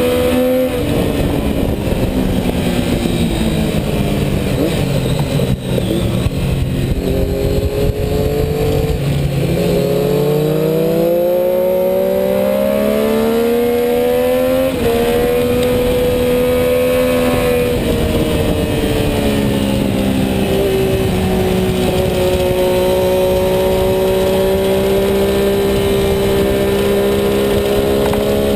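Sport motorcycle engine at track speed: the pitch falls away for the first several seconds as the bike slows for a corner, then climbs hard under acceleration, drops abruptly at a gear change about 15 seconds in, eases lower again around 19 seconds, and holds steady to the end.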